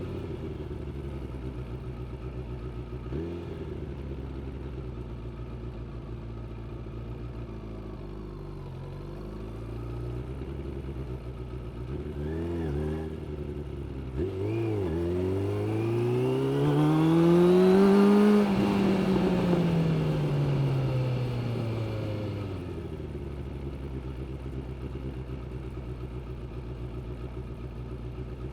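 Suzuki GSX600F inline-four motorcycle engine idling, with a few short throttle blips, then revving up smoothly for about three seconds, the throttle shut suddenly and the revs falling back to idle over about four seconds.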